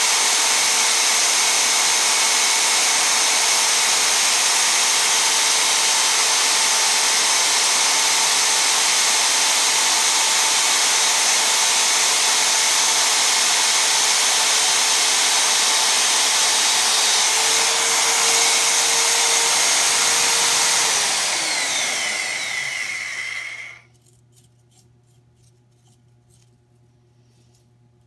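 Magnetic drill press motor running steadily as it bores a hole through thick plate, with a steady whine over a hiss. About 21 s in it is switched off: the whine falls in pitch and dies away by about 24 s, leaving a few faint ticks.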